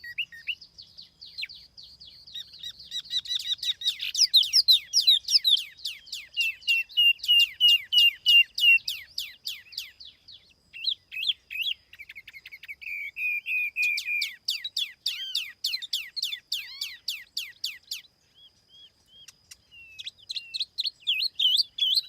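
Tiểu mi songbird singing a lure song: rapid runs of quick, down-slurred whistled notes, phrase after phrase, with a brief pause about eighteen seconds in before it starts again.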